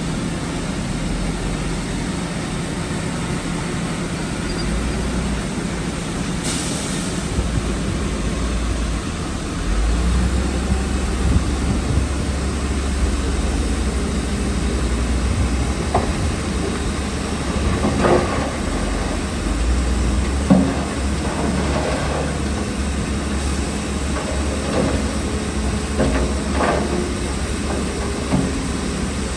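Heavy diesel earthmoving machinery running with a continuous low rumble, which gets slightly louder about a third of the way in. There is a short hiss near the start, and from about halfway on there are scattered metallic clanks and knocks.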